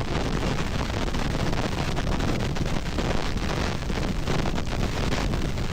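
Katabatic wind blowing hard and steadily across the microphone, a dense rushing noise heaviest in the low end, with a hiss of blown snow and ice.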